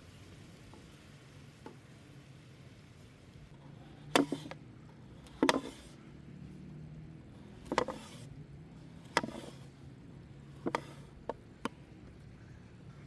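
Chopping: about seven sharp, irregularly spaced chops, starting about four seconds in, each with a short ring.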